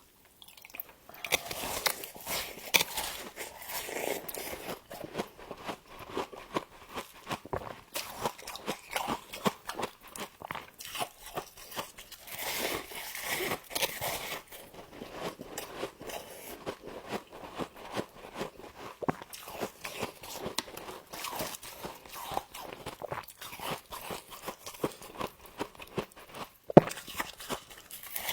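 A person biting into and chewing frost, a dense run of crisp crunches that starts about a second in and goes on without a break, with one sharp, louder crack near the end.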